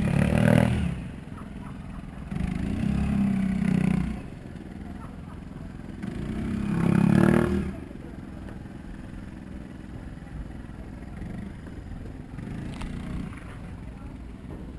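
Small outboard motor on a boat being throttled up in three short surges, each rising and falling away, between steadier low running, as the boat is manoeuvred in to dock.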